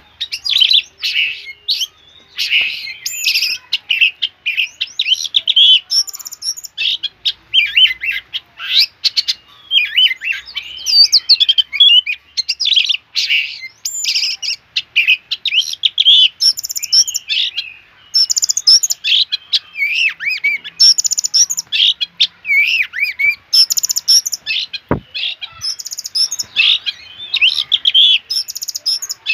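Oriental magpie-robin singing continuously: a long run of loud, varied whistled phrases and quick chattering notes with only short pauses. One brief click is heard about 25 seconds in.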